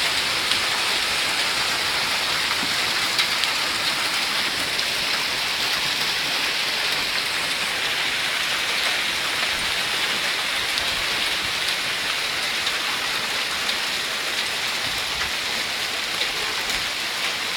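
Heavy rain pouring down in a steady, dense hiss, with scattered drop ticks, during a summer storm.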